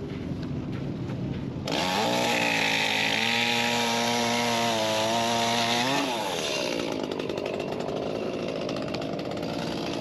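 Gas chainsaw throttled up about two seconds in and held at high revs for about four seconds, then released so the engine winds down to a lower idle.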